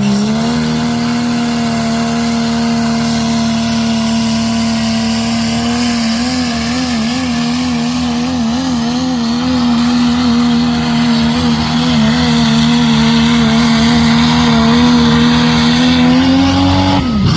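Pulling truck's 6.7-litre Cummins diesel running at high revs under load down the track: the pitch climbs in the first half second, holds high and steady with a wavering stretch in the middle, and falls away sharply near the end as the run ends.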